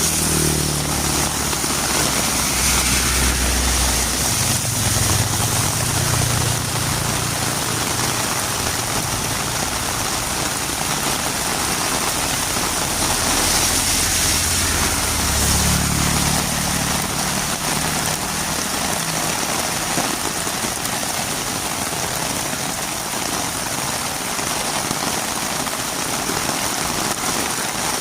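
Heavy rain falling steadily on a road, a dense even hiss, with a low rumble that swells twice, over the first few seconds and again about halfway through.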